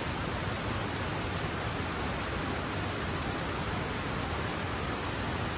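A creek flowing: a steady, even rushing of water with no change in level.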